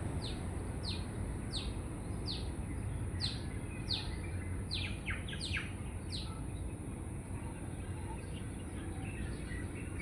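Birds calling outdoors: a run of short, sharp, falling chirps, about two a second, that thins out and fades about six seconds in. Behind them is a constant high-pitched hiss and steady low background noise.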